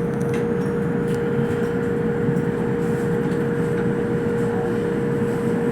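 Inside a moving Toei Mita Line subway car: the steady running rumble of wheels on rails, with a constant hum held at one pitch throughout.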